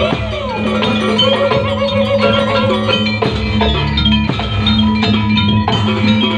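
Jaranan accompaniment music played live: a gamelan-style ensemble of struck metallophones and gongs over hand drums, with a wavering, sliding melody line in the first half.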